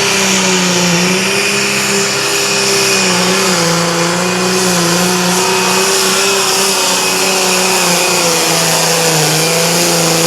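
Competition pulling tractor's engine running hard at high revs under load during a pull, one steady high drone whose pitch sags a little a few seconds in and again near the end.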